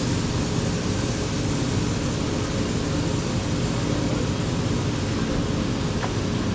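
Gas engine of a WoodMizer LT35 band sawmill running steadily, with an even hum.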